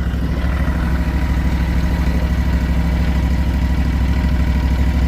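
Engine of a Multi-Force compact walkway plow running steadily while it pushes snow.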